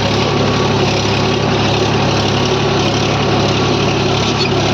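Tractor diesel engine running at a steady speed, with a constant low hum and no change in pitch or loudness.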